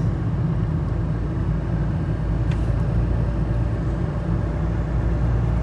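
Peugeot Partner car driving at a steady pace: a continuous low rumble of engine and road noise, with a faint tick about two and a half seconds in.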